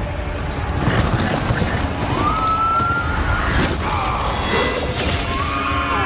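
Film battle sound: repeated crashes and impacts with long, gliding cries, over music.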